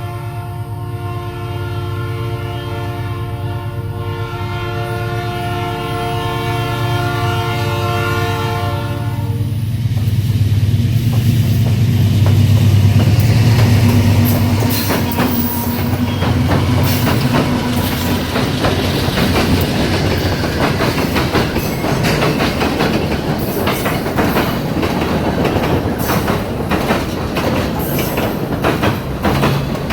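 Freight train passing: the lead locomotive's horn sounds one long blast for about the first nine seconds, over the rumble of the GE B39-8E diesel locomotives, which grows loudest just after the horn stops. The train's wheels then clickety-clack steadily over the rail joints as the cars roll by.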